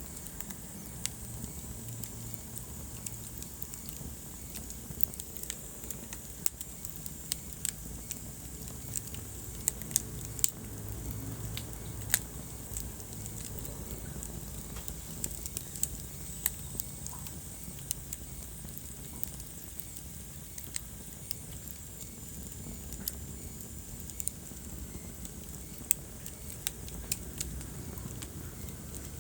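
Wood fire in a fireplace crackling, with sharp pops at irregular intervals over a steady low rumble and soft hiss of the flames.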